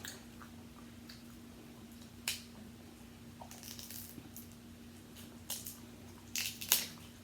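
Eating seafood up close: a few short sharp clicks and wet smacks, the loudest cluster near the end, over a steady low hum.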